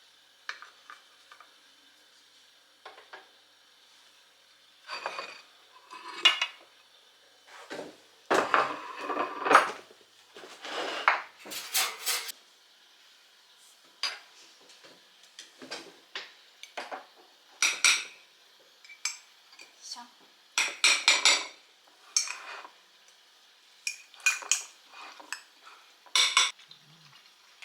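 Dishes, pots and cutlery clinking and clattering in irregular bursts, the busiest and loudest stretch about a third of the way in.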